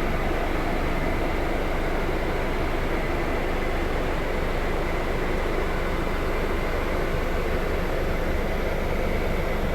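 Scania K320 IB coach running steadily, a constant engine rumble with road and running noise.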